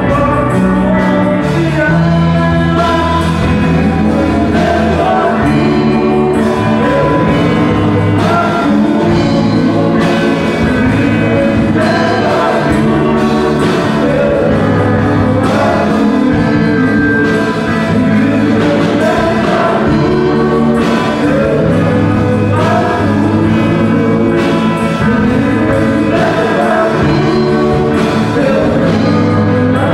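Portuguese-language gospel song: singing over a band accompaniment with a steady beat.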